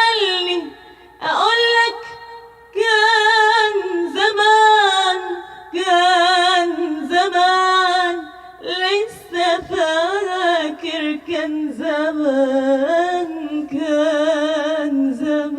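A woman singing a long ornamented Arabic melodic line in a solo voice, with held notes carrying a strong vibrato and brief breaks for breath.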